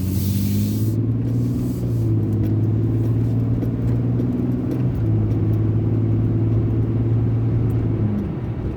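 Car engine and road noise heard inside the cabin while driving, with a brief hiss in the first second; the engine note drops away near the end.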